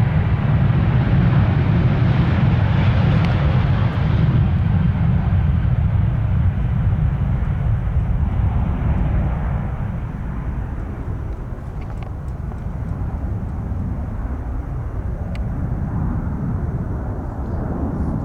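Boeing 737-800's CFM56-7B turbofans running at takeoff power as the jet accelerates and climbs away. The jet noise slowly fades, losing its higher hiss first.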